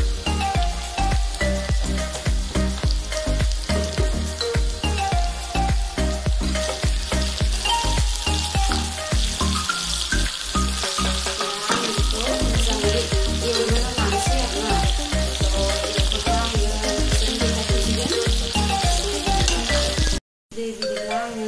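Potato wedges deep-frying in hot oil in a kadai, a steady sizzle, with a steel ladle stirring and scraping the pan, over background music with a steady beat. The sound cuts out for a moment near the end.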